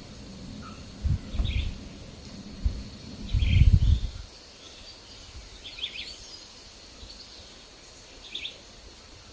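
Forest ambience: short bird chirps every couple of seconds over a steady high hiss, with two low gusts of wind rumbling on the microphone, about a second in and, louder, around three and a half seconds in.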